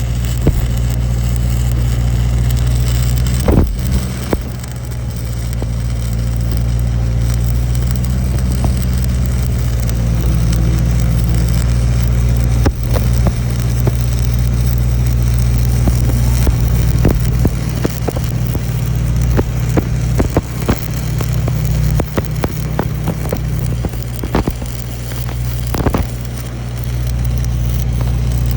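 Welding: a steady low machine hum with scattered crackles and sharp clicks.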